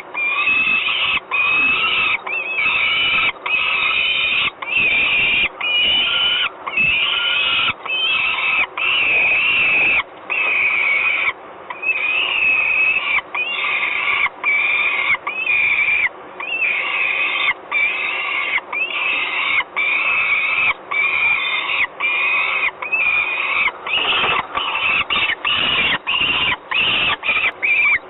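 Peregrine falcon calling over and over: a long run of harsh, wailing calls, each under a second, separated by short breaks that come quicker near the end.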